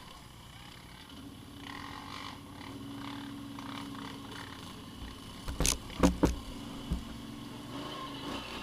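A vehicle engine idling steadily. A few sharp knocks come about five and a half to six and a half seconds in, and one more at about seven seconds.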